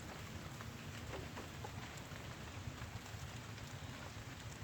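Light rain falling, a faint steady patter with scattered individual drops ticking.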